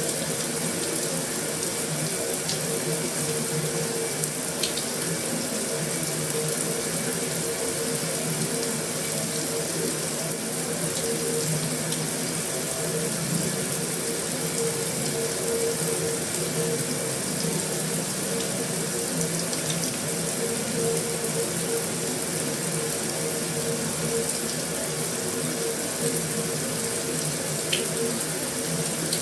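Heavy rain falling on a metal roof, an even, unbroken hiss of water with a few faint ticks.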